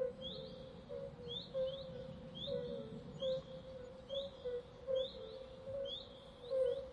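Small birds chirping: a string of short rising chirps, about one or two a second, with short lower notes beneath them.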